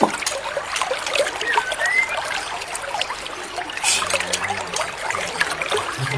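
Water trickling and dribbling steadily, with a few short whistled bird notes that glide up in pitch.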